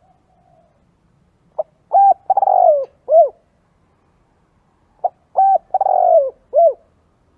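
Spotted dove cooing: two identical calls about three and a half seconds apart, each a short clipped note, a longer wavering coo that slides down in pitch, and a final short coo.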